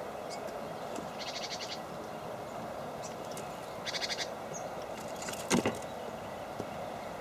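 Small birds calling, with two short rattling chatters about a second and four seconds in and a few thin high chirps, over a steady hiss. Two sharp knocks come in quick succession about five and a half seconds in.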